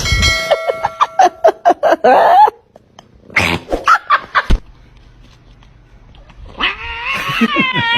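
A pet animal's calls: a quick run of short pitched cries, a few more about a second later, then one longer wavering cry near the end.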